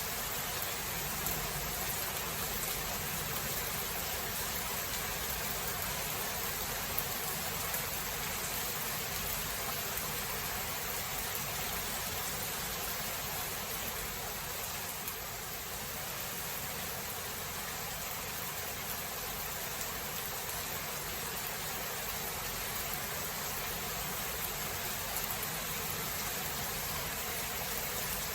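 Steady rain falling in a thunderstorm recording: an even, unbroken hiss with a few faint ticks of drops and no thunder clap.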